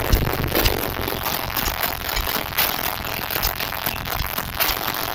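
High-powered car audio system playing bass-heavy music at high volume, with crackling distortion from the overload.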